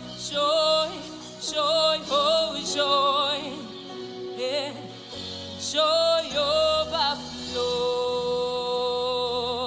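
Live gospel worship singing of a repeated "joy" chorus over steady instrumental backing. Short sung phrases give way to one long held note near the end.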